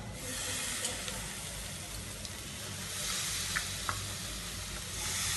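Raw chicken pieces going into hot oil and fried onion masala in a cast iron kadai, sizzling. The sizzle steps up in loudness about three seconds in and again near the end as more pieces land in the pan.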